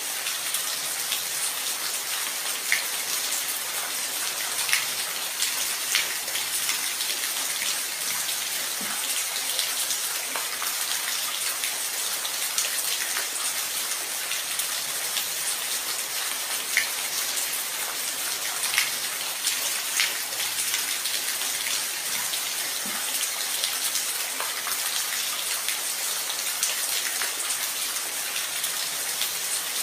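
Steady rain falling, an even hiss with individual drops landing as sharp taps every second or two.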